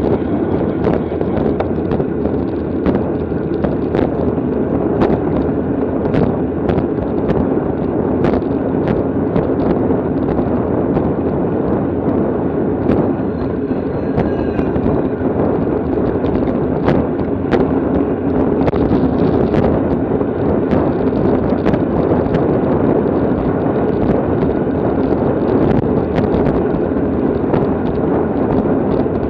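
Steady wind buffeting on the microphone of a camera moving at racing speed on a bicycle, with frequent small clicks and knocks scattered through it.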